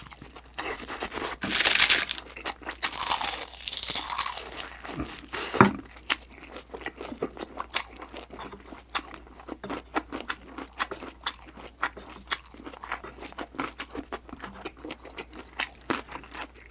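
Close-miked eating sounds: loud crunching bites in the first few seconds, then steady chewing with many small wet clicks.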